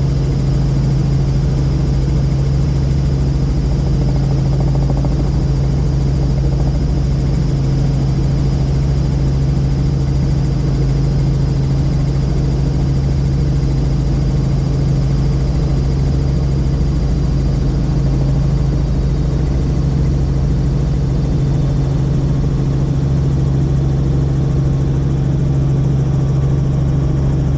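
Helicopter in flight, heard from inside the cabin: a loud, steady drone with a strong low hum.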